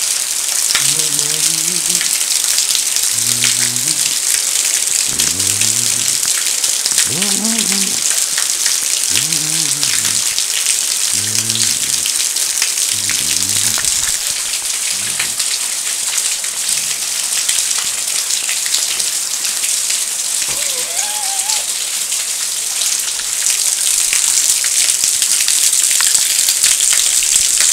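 Heavy rain pouring off a roof and splashing onto a concrete balcony: a steady, dense hiss of water with many small splashes, growing louder near the end.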